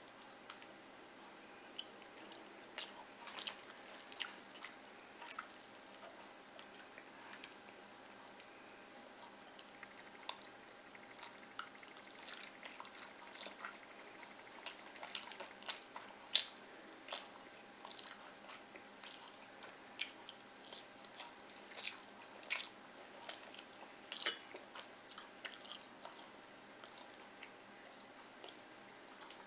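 Close-up eating sounds: wet chewing with many short, irregular smacking clicks as fried fish and rice are eaten by hand.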